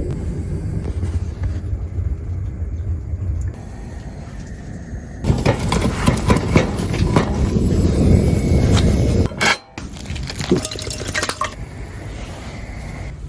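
A low rumble, then several seconds of clattering and clinking like pots, dishes and utensils being handled, ending abruptly, with a few lighter clinks after.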